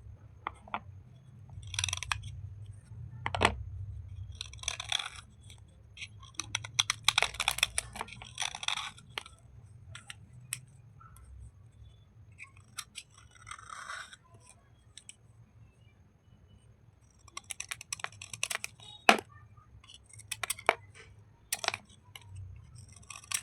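Crisp crunching and crackling of slate and clay bars, in short bursts of a second or two with brief pauses between, and a few sharp single snaps.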